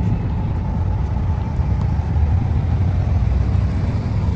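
Steady low rumble of a motor vehicle, with a faint steady tone above it.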